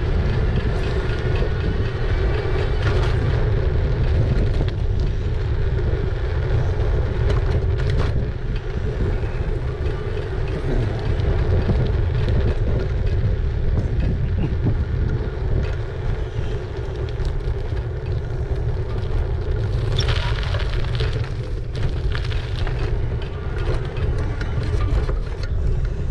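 Riding noise from an e-bike on town roads: a steady low rumble of wind and road noise on the microphone, with a steady hum and scattered light ticks, and a brief brighter rush about twenty seconds in.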